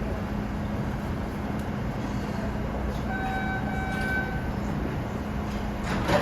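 Train at a station platform: a steady rumble with a constant low hum. About three seconds in, a brief high pitched tone sounds in two short parts, like a horn or a brake squeal. A sharp clatter comes near the end.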